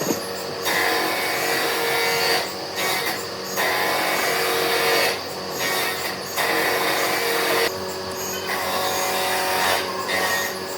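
A lathe running steadily, with about four louder stretches of a tool working the spinning epoxy-and-wood workpiece, each lasting a second or two.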